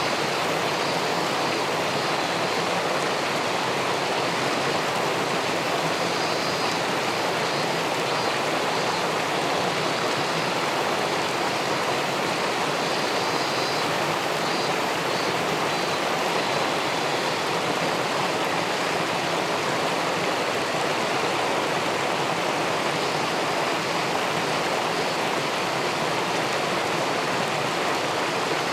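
Steady rushing of river water flowing below a weir, an even, unbroken noise.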